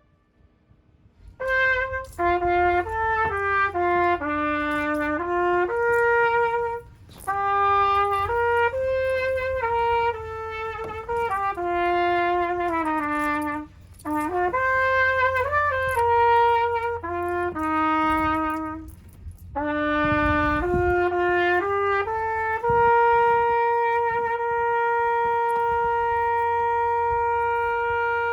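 Solo trumpet playing a melody in several short phrases separated by brief pauses, ending on one long held note near the end.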